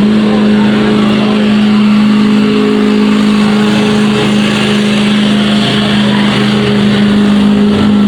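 Pickup truck engine running flat out at steady high revs, pulling the weight sled in a street-class truck pull; the pitch holds level.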